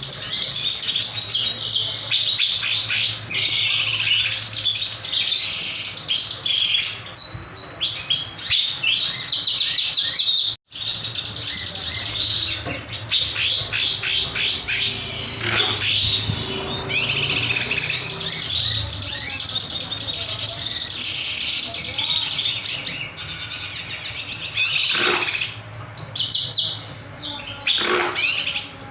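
Kinoy songbird singing steadily in rapid, high chirps and trills with sharp high notes, broken by a momentary gap about ten seconds in.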